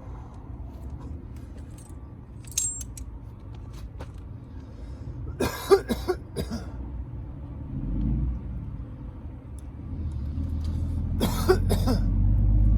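A man coughing in short fits, once about halfway through and again near the end, over a steady low rumble of vehicle noise that grows louder in the last few seconds.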